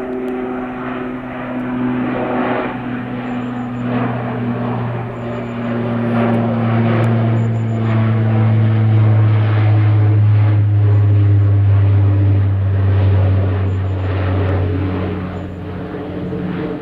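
Boeing 747-400 jet airliner's four engines passing, a steady low drone that grows louder to a peak about halfway through and then eases off, its tones slowly falling in pitch.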